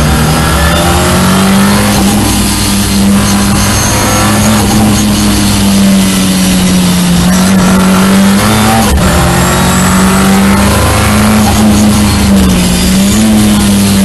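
Ford Escort RS Cosworth's turbocharged four-cylinder engine running hard at high revs at track speed, heard from inside the cabin over dense road and wind noise. The revs dip briefly twice, about two-thirds of the way in and again near the end.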